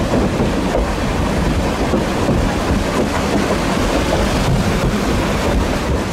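Durango & Silverton train running, heard as a steady loud rush of wind and rolling noise with occasional faint clicks from the wheels.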